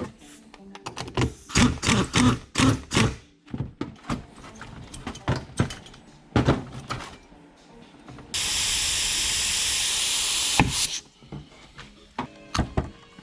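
A string of sharp knocks and clicks from handled parts and tools, then, a little past the middle, a steady hiss lasting about two and a half seconds that ends with a click.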